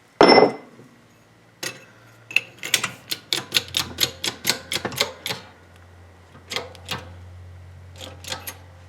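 Metal parts and tools handled at a workbench: a loud clank with a short ring near the start, then a quick run of light sharp taps and clicks, about four or five a second, and a few more later. A low steady hum comes in partway through.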